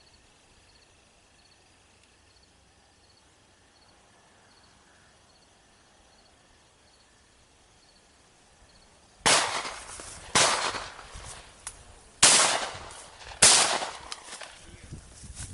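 Four shotgun shots about nine seconds in. Each is a sharp blast that trails off over about a second, with uneven gaps between them. Before the shots there is only a faint, quiet background.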